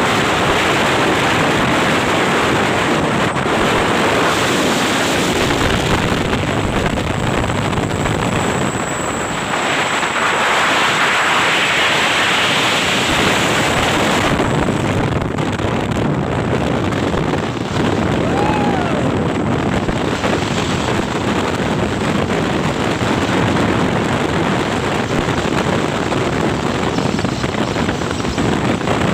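Loud, steady rushing of wind on the microphone mixed with road traffic noise, swelling for a few seconds partway through as a vehicle passes.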